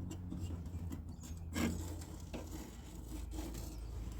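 Faint rubbing and scraping with one sharper knock about a second and a half in, from work on the door-handle bolt inside a car door, over a low hum that fades away in the first second.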